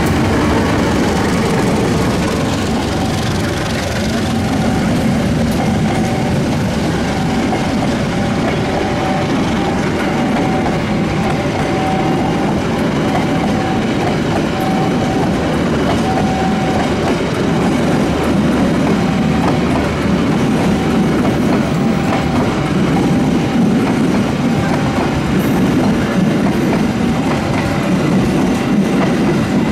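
Passenger train rolling past: the KAI CC201 diesel-electric locomotive goes by at the start, then a long line of passenger coaches follows, their wheels clicking steadily over the rail joints. A short warning tone from the level crossing repeats about once a second through much of it.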